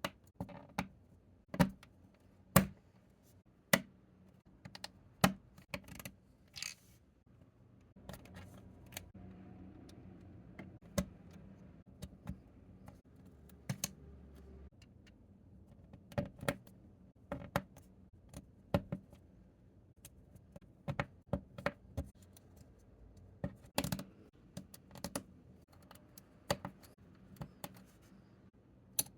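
Plastic toy bricks clicking and clacking as they are handled. The sharp clicks come at irregular intervals, sometimes singly and sometimes in quick clusters.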